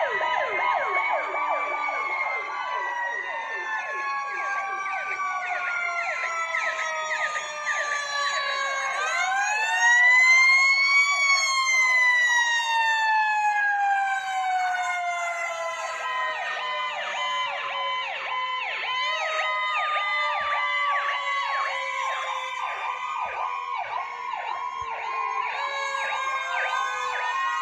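Several fire truck sirens sounding together: slow wails gliding up and down overlaid with fast, rapidly repeating yelps. About nine seconds in, one siren winds up loudly and then slowly falls away.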